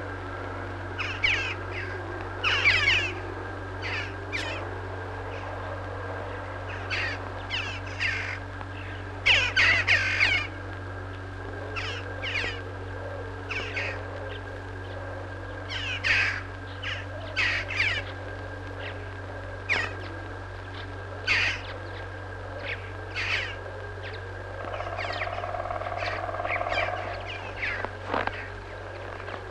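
Birds calling again and again in short, irregularly spaced calls, over a steady low hum.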